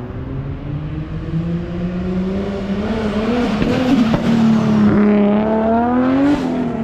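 A car engine driving past close by. Its pitch climbs as it accelerates and drops sharply just after the loudest point, near the end, as it goes by.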